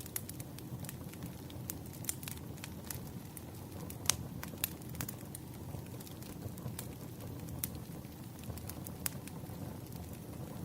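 Firewood burning: irregular crackles and pops of the burning logs over a low steady rumble of the fire, with one sharper pop about four seconds in.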